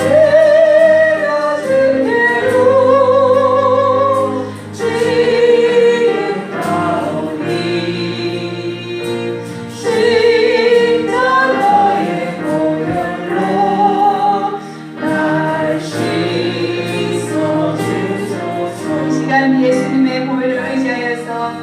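Congregation singing a gospel hymn together over steady instrumental accompaniment, with long held notes.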